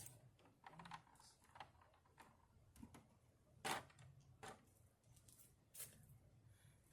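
Faint, irregular clicks and light taps of hands working with parts and tools, the sharpest about halfway through, against near silence.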